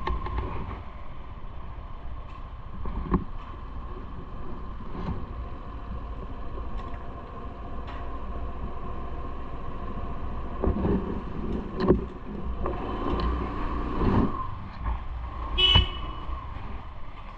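Road traffic running steadily around a moving rider, with scattered knocks and a short, high-pitched toot near the end.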